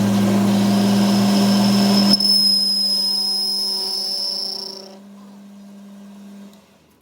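A workshop machine's electric motor runs with a steady hum and a high whine. About two seconds in, the low part of the hum cuts out. The whine stops near five seconds, and the hum fades away soon after as the machine is shut down.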